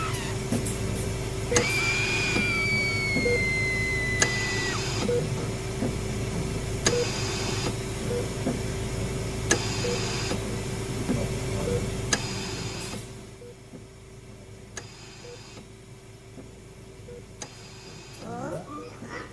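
Layered horror sound-effects ambience: a steady electrical hum with short beeps and clicks at regular intervals, about one every second and a half, and a falling wailing tone a couple of seconds in. The whole bed drops quieter about two-thirds of the way through.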